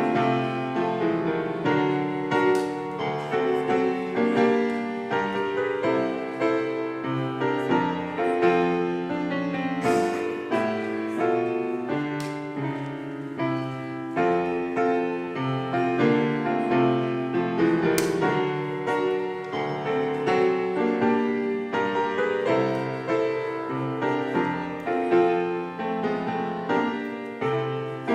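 Piano music: a continuous instrumental piece with many notes.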